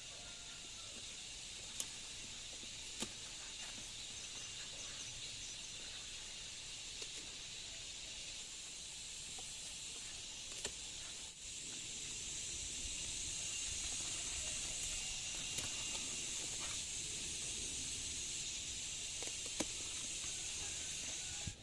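Steady high-pitched outdoor drone of an insect chorus, with a few sharp clicks; it grows a little louder about halfway through.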